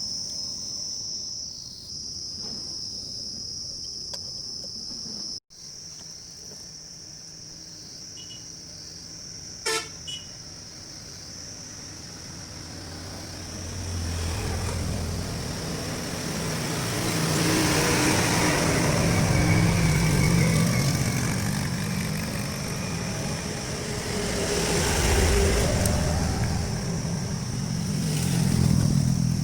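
Road traffic: a steady high-pitched whine at first, a short vehicle horn toot about ten seconds in, then vehicle engine noise building up and swelling louder twice.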